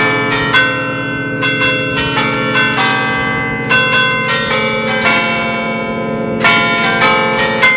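A concerto of nine bronze church bells in B-flat, cast by Francesco D'Adda of Crema in 1931, is rung by hand in a festive Bergamasque allegrezza. Different bells are struck about twice a second in a quick irregular pattern, each ringing on over the others above a steady hum of lower tones.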